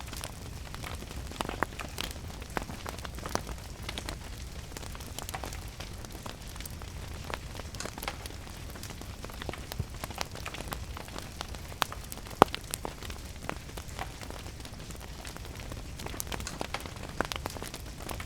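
Wood fire crackling with irregular sharp pops, the loudest about twelve seconds in, over a steady hiss of rain.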